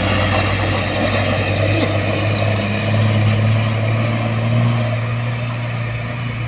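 Heavy diesel truck engine pulling hard up a steep climb, a steady low drone.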